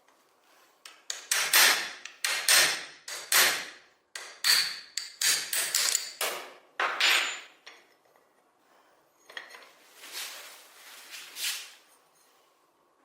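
A run of sharp workshop knocks, like tool strikes on a hard part, roughly two a second for the first seven seconds. Then come two softer, longer scraping-type sounds around ten and eleven seconds in.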